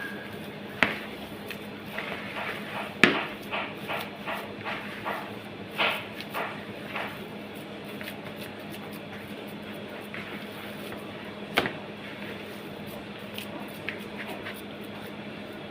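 Irregular knocks and clacks, with a quick run of them between about two and seven seconds in and a sharp single knock near twelve seconds, over a steady low hum.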